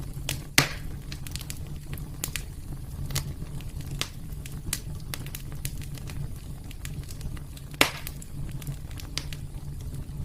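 Wood fire burning in a fireplace, crackling with irregular small snaps over a steady low rumble. Two much louder pops come about half a second in and again near the end.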